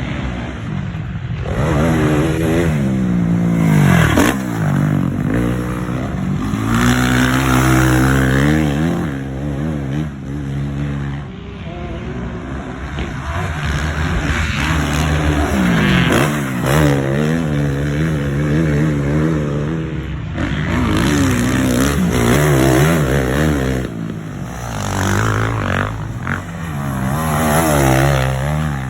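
Motocross dirt bike engines revving, their pitch climbing and dropping again and again as the bikes accelerate and shift.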